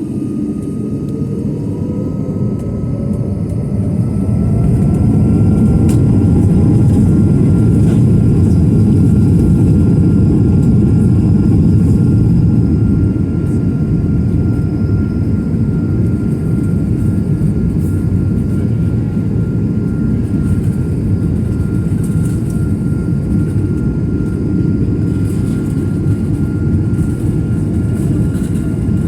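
Jet airliner engines at takeoff thrust, heard inside the cabin: a heavy roar with a whine rising in pitch over the first several seconds. It grows louder about four seconds in, then eases a little about thirteen seconds in, leaving a steady roar and a high whine.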